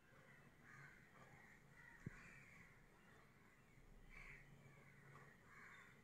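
Near silence with several faint bird calls spaced irregularly, and a single sharp click about two seconds in.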